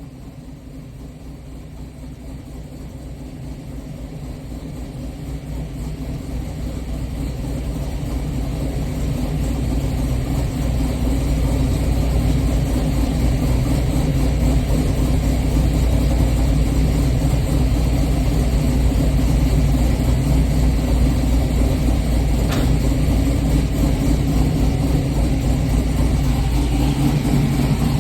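LS-swapped 6.0-litre V8 in a G-body Oldsmobile Cutlass idling steadily, growing louder over the first dozen seconds and then holding level.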